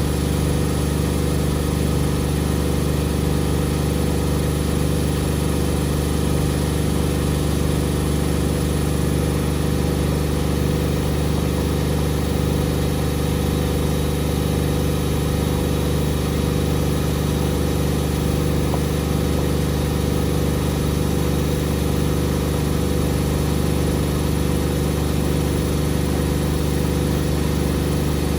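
Beko WMD 46160 washing machine with its drum spinning at a steady high speed: an even machine hum that does not change.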